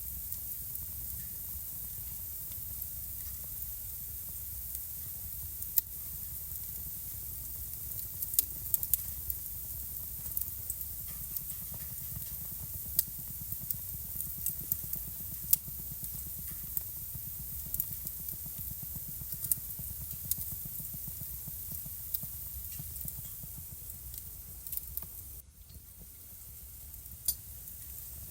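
Wood fire crackling in a fireplace: irregular sharp pops and snaps over a steady low hiss, the pops coming thickest in the middle, with a short lull near the end.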